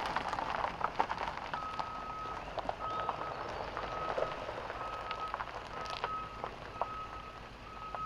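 A vehicle's reversing alarm beeping a single steady tone about once a second, starting about a second and a half in, over a faint steady hiss with scattered light clicks.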